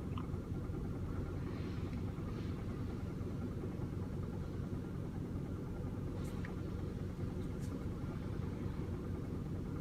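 Toyota Camry four-cylinder engine idling steadily, with a couple of faint ticks near the end.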